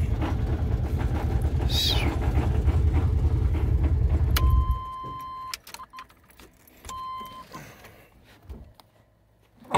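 A rebuilt 350 small-block V8 idles steadily with no knock, then is switched off about five seconds in. After that, a steady dashboard warning chime sounds twice, with a few light clicks.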